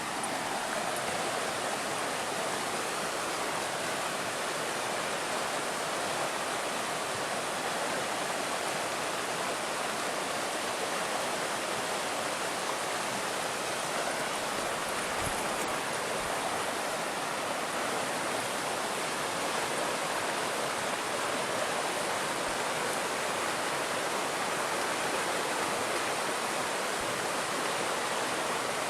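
Water flowing steadily in an irrigation canal, an even, unbroken splashing noise.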